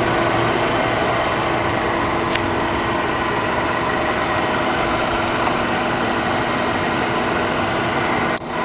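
Tschudin HTG-400 precision grinder running steadily, a smooth machine hum with a few steady tones over an even whir. The level dips briefly near the end, then carries on.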